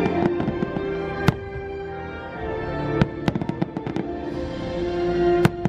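Fireworks going off over show music: a quick run of pops at the start, a loud bang about a second in, a rapid string of pops in the middle, and another loud bang near the end.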